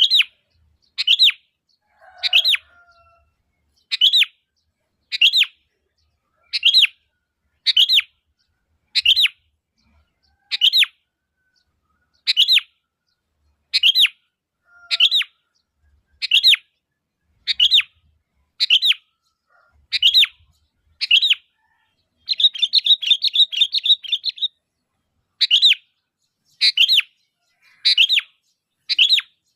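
Sooty-headed bulbul (kutilang) giving short, loud calls repeated about once a second, breaking into a rapid chattering run of notes about 22 seconds in.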